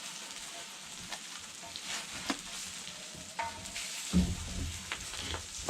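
Kimchi pancake batter sizzling in oil on a cast-iron cauldron lid over a wood fire, with a few sharp clicks scattered through. A low rumble comes in about four seconds in.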